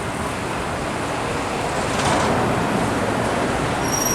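Steady roar of highway traffic and tyre noise, swelling as a vehicle passes about halfway through. A thin, high steady whine starts near the end.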